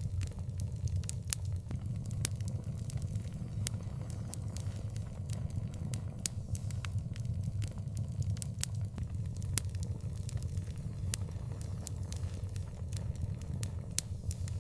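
Fire in an outdoor fireplace crackling, with frequent irregular sharp pops over a steady low rumble.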